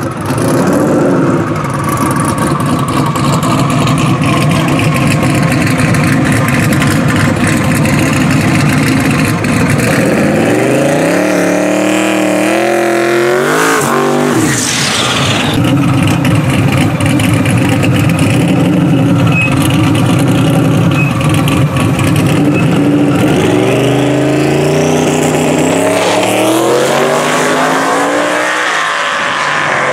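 Twin-turbocharged 4.6-litre two-valve V8 of a 2002 Ford Mustang held at steady high revs through a burnout, climbing in pitch toward the middle and then dropping. Near the end it revs up again as the car launches down the drag strip.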